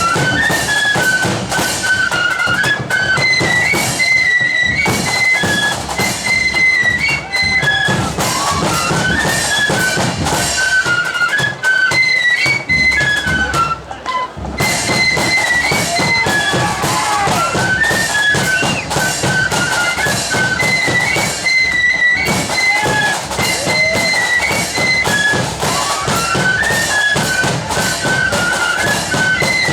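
A 'blood and thunder' flute band playing a march: a high, bright flute melody over loud, dense drumming.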